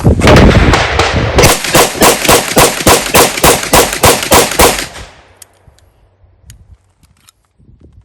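SIG Sauer P229 pistol in .357 SIG firing a rapid string of shots, about three a second, stopping about five seconds in, then a few faint clicks. Every round goes off with no misfire: the pistol runs cleanly on its newly replaced firing pin.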